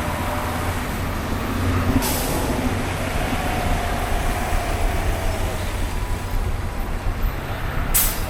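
Street traffic with heavy vehicles: a steady engine rumble, broken by two short air-brake hisses, one about two seconds in and one near the end.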